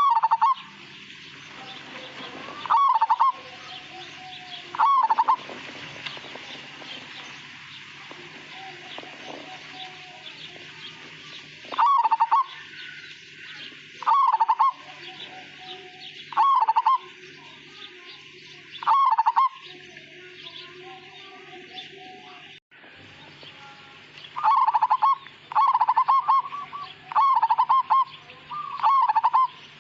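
Zebra dove (perkutut, local Majapahit type) cooing in short rolling phrases, a few seconds apart at first, then in a quicker run near the end. A steady high chirring runs underneath.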